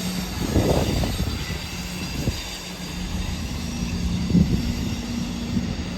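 A train moving at the platforms, with a steady low hum over a continuous rumble and a few brief louder knocks.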